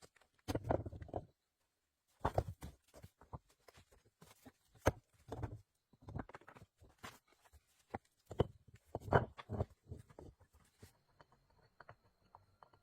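Irregular knocks, clicks and scraping rustles of hands-on building work, with the longest scraping bursts about half a second in and around nine seconds.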